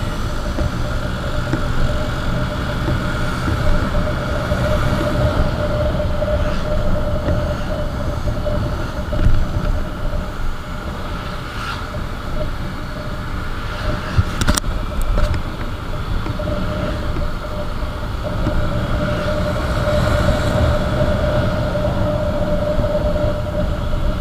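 Motorcycle riding at steady speed, heard from the rider's mic: a steady engine hum over low road rumble and wind noise, with a few short clicks about halfway through.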